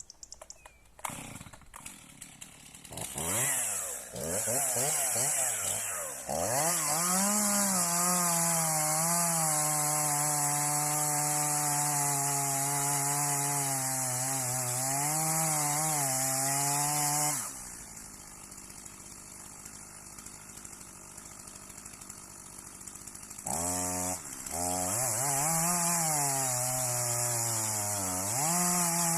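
Two-stroke chainsaw revving up and then cutting under load, its pitch dipping now and then as the chain bites, with its bar's oil hole just cleared of sawdust so the chain is lubricated. The engine drops away about seventeen seconds in, then revs up again near the end and runs on.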